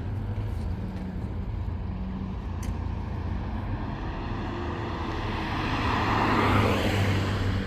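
Motor vehicle running with a steady low engine hum. A rushing noise swells up and fades away about six to seven seconds in.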